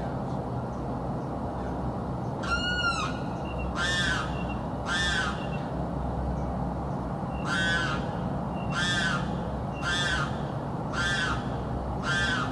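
A bird screaming: eight loud, harsh calls, each under half a second and arching up then down in pitch, beginning about two and a half seconds in, three in a row, a short pause, then five more about one a second. Steady low background noise underneath.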